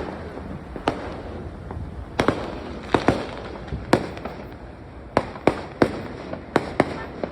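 Fireworks going off: a dozen or so sharp bangs at irregular intervals, several coming in quick succession in the second half.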